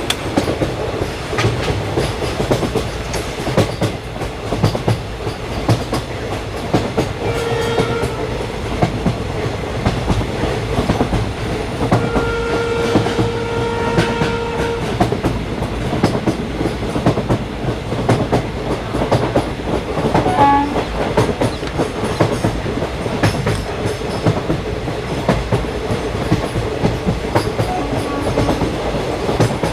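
Train running on the rails with a steady rumble and the rapid clickety-clack of wheels over rail joints. A horn sounds briefly about seven seconds in, then holds for about three seconds around twelve seconds in.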